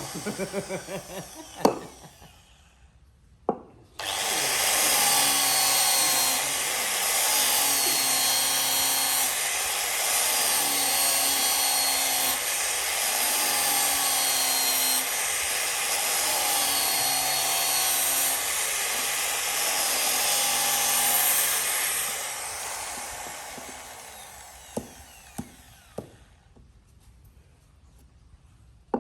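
Handheld electric power tool working wood, switched on about four seconds in; its motor pitch dips and recovers every couple of seconds as it bites into the wood, then it is switched off and winds down gradually. A few light knocks follow.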